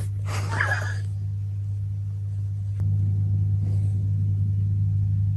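Steady low mechanical hum that grows a little louder about three seconds in, with a brief rustling noise in the first second.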